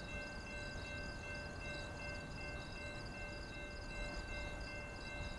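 Distant approaching train with grade-crossing bells ringing: a faint, steady low rumble under quick, high, repeating ringing.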